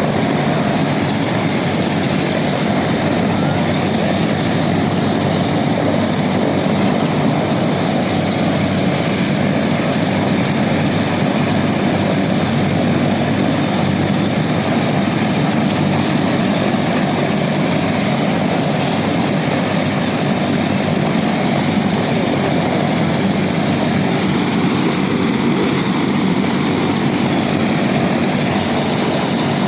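Air ambulance helicopter running steadily, a loud even rush of turbine and rotor noise that holds without change.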